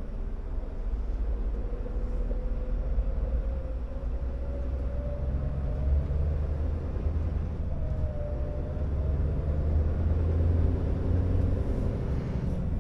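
Scania R650 timber truck's V8 diesel engine running steadily while driving: a deep rumble with a whine that drifts a little up and down in pitch.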